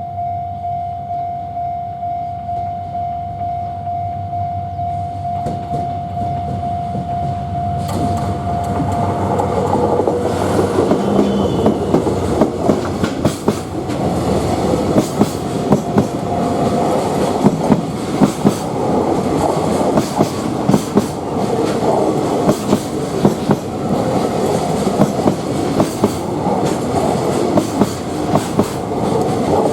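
A level-crossing warning bell rings steadily, then a locomotive-hauled freight train passes at speed. From about ten seconds in, its wheels clatter in repeated pairs of clacks over the rail joints.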